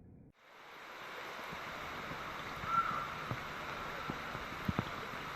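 Rain falling in a steady hiss, with scattered louder pops of single drops, the sharpest near the end. The hiss comes in abruptly and builds over the first second, and a brief high tone sounds near the middle.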